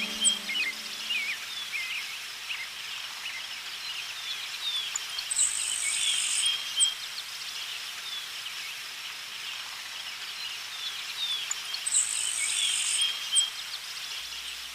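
Tits calling: many short, thin chirps, with a high buzzy call of about a second coming twice, some six and a half seconds apart.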